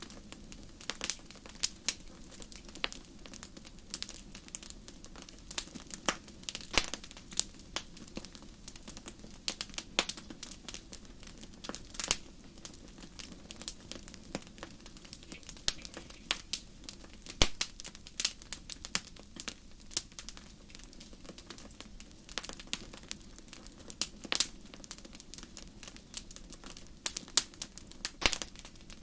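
Wood fire in a fireplace crackling, with many irregular sharp pops and snaps over a low steady rush.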